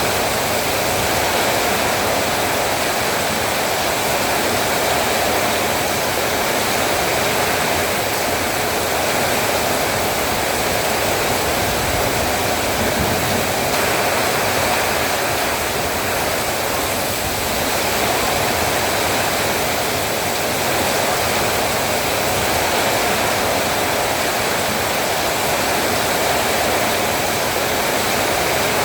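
Heavy rain falling steadily, a dense even downpour with no let-up.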